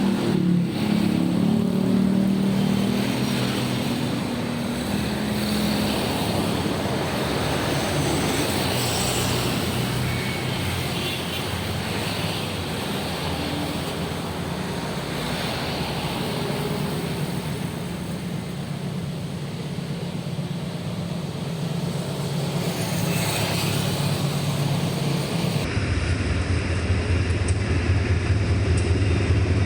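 Diesel locomotive running as the train passes, a steady low engine drone. Near the end the sound cuts abruptly to a louder, deeper engine drone.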